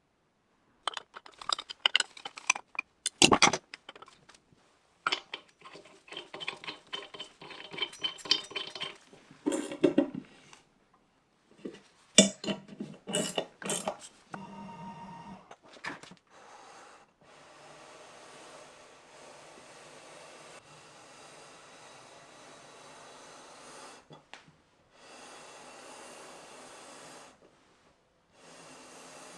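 Metal tools and parts clinking, knocking and being set down on a workbench, with a few sharp loud knocks, followed in the second half by a fainter steady noise that stops and restarts a few times.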